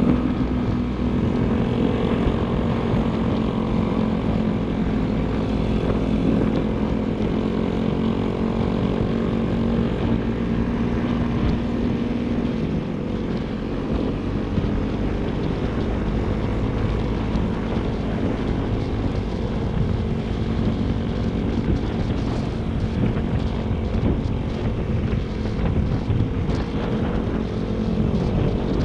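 Motorcycle engine running steadily while riding, a constant engine hum over a haze of rushing noise.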